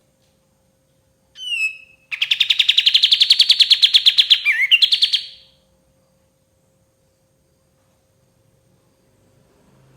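Kapas tembak songbird calling: a short falling note, then a rapid trill of about ten notes a second lasting some three seconds, ending in a quick twisting note.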